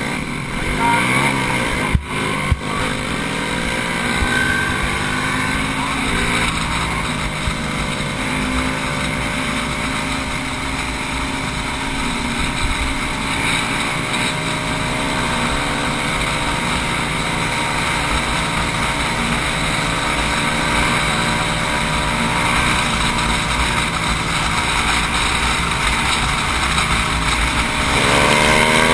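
110 cc-class racing motorcycle engine pulling hard off the start, its pitch climbing over the first few seconds, then running at high revs down the track. Two sharp knocks about two seconds in, and the pitch rises again near the end.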